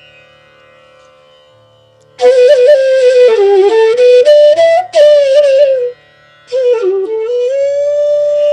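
Bansuri bamboo flute playing a raga melody: after a quiet first two seconds, an ornamented phrase with pitch bends and quick grace notes, a brief pause, then a phrase that dips and settles into a long held note.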